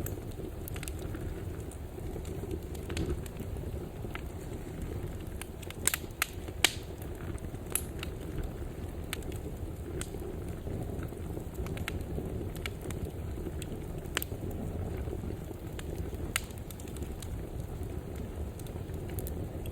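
Fireplace fire burning with a steady low rumble and scattered sharp crackles and pops, the loudest pair about six to seven seconds in.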